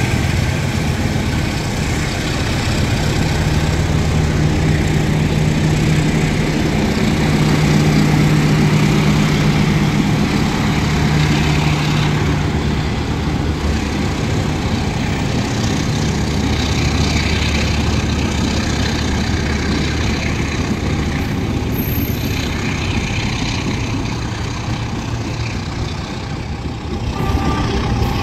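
Diesel-hauled passenger train moving slowly past, its diesel engine giving a steady low drone.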